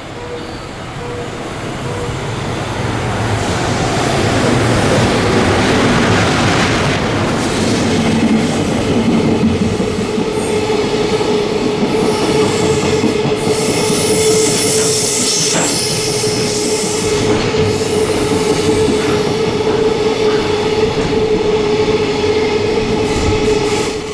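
Train passing through the station without stopping: wheels on rails building up over the first few seconds and then staying loud, with a steady tone held through the second half of the pass.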